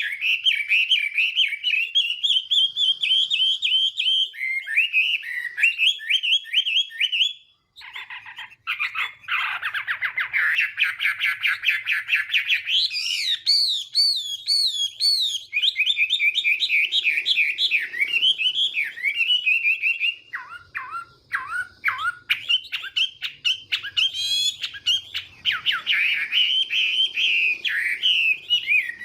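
Chinese hwamei singing its challenge song: a long, varied run of rapid whistled phrases, broken by a short pause about seven seconds in.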